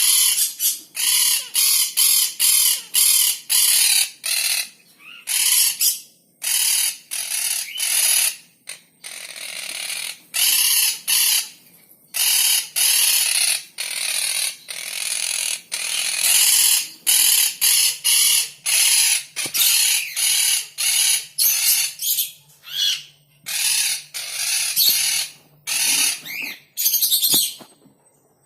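Baby bird calling over and over in loud, harsh, rasping bursts, each under a second long, with short gaps between them.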